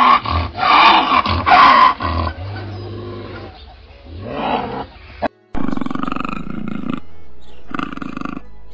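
A lynx gives three loud, harsh calls in quick succession, then a weaker call about four and a half seconds in. From about five and a half seconds in, a puma vocalizes with a fast, rattling pulse in long stretches.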